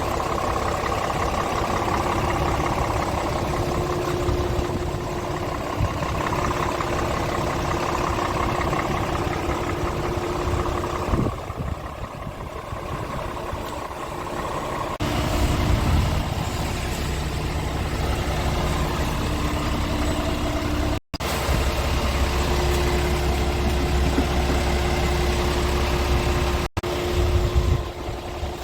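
Scania R tractor unit's diesel engine idling steadily. The sound shifts in character a few times, with two abrupt brief dropouts where the clips are cut together.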